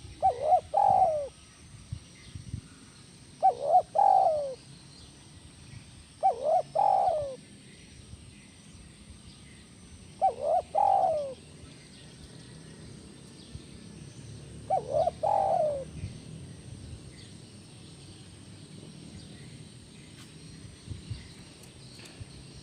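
Spotted dove cooing: five separate song phrases a few seconds apart, each a couple of quick short notes followed by a longer falling coo.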